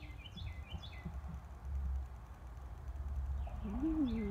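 A songbird singing in the background: a series of short, quick, falling chirps, heard in the first second and again near the end, over a low steady rumble.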